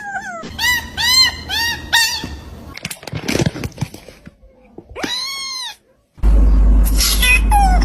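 A cat, likely a kitten, meowing: four short high-pitched meows in quick succession, then a single meow a few seconds later. Near the end a loud low rumble sets in, with a falling meow over it.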